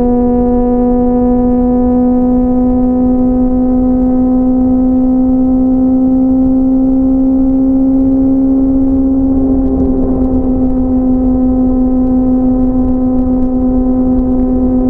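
Inline-four sport motorcycle engine running at steady high revs while cruising, a constant buzzing note, with low wind rumble underneath.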